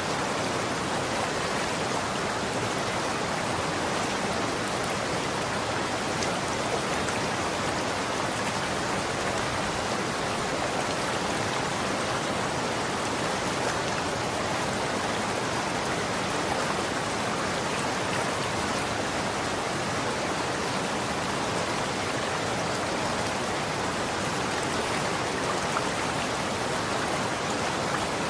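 Running water, a steady, even rushing that does not change.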